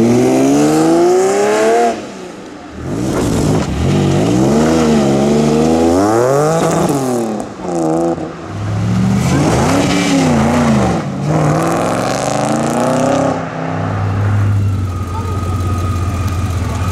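Sports car engine accelerating hard with its pitch climbing, then revved up and down several times. Near the end it settles to a steady idle.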